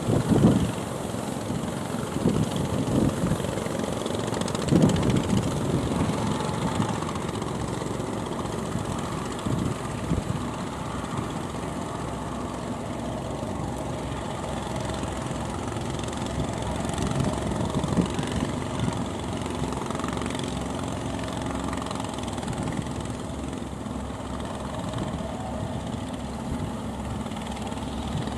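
Fishing boat's engine running steadily while the boat crosses waves, with louder irregular rushes of noise in the first several seconds.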